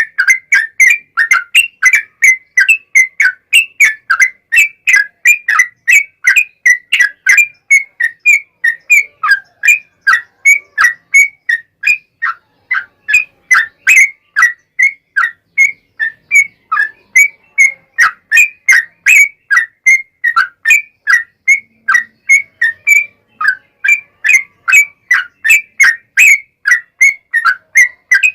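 Yellow-vented bulbul (trucukan) singing a long unbroken run of short, clear whistled chirps, about three a second, the 'ropel panjang' song used as a lure call to set other trucuk birds singing.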